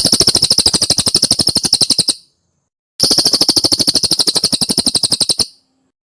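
Cililin bird song: two fast trills of sharp, high, evenly repeated notes, about a dozen a second. Each lasts about two seconds, with a one-second pause between them.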